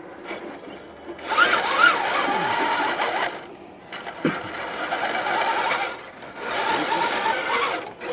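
Radio-controlled rock crawler's electric motor and geared drivetrain whining in three throttle bursts, the pitch rising and falling as it climbs over rock.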